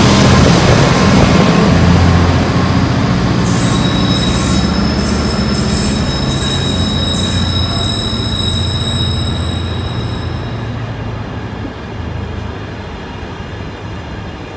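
Container wagons of a freight train rolling past at close range with a heavy rumble that slowly fades. From a few seconds in until about two-thirds of the way through, the wheels give a steady high-pitched squeal.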